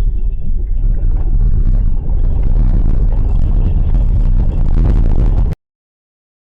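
Loud rumble of a moving car, heard through a dashcam microphone, with scattered clatter; it cuts off suddenly about five and a half seconds in.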